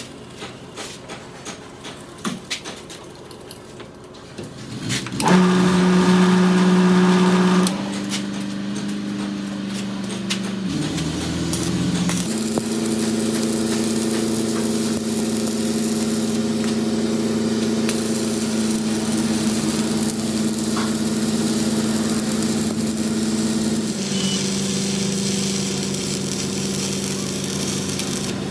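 Scattered clicks and taps of metal being handled, then about five seconds in a shop machine's motor starts and runs with a steady hum that shifts pitch several times.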